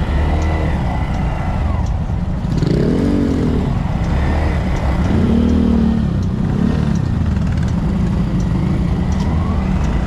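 Honda Monkey 125 motorcycles' single-cylinder engines running on the move over a steady low rumble, the engine note rising and falling a few times.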